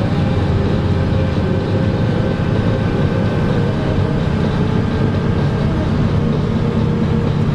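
Steady rumble of a moving vehicle heard from inside, with a constant low hum of engine or motor and road or track noise.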